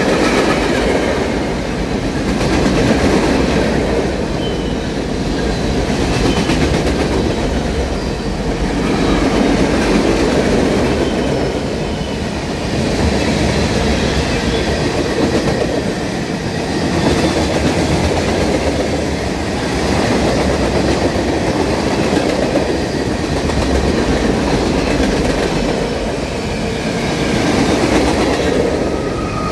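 Freight cars rolling past close by: a steady rumble of steel wheels on the rails with clickety-clack, swelling and easing every two to three seconds as the cars go by, and now and then a faint wheel squeal.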